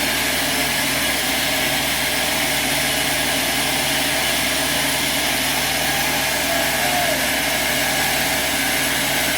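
Sawmill machinery running steadily, an even mechanical noise with no change in speed or load.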